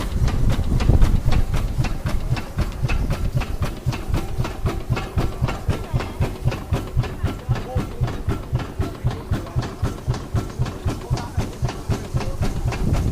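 An old fire engine's engine running with a fast, even beat of short noisy puffs, about five a second, over a low rumble.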